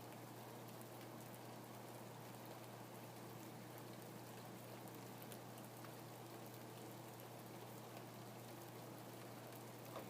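Steady, faint rain falling, with scattered drop ticks through the even hiss.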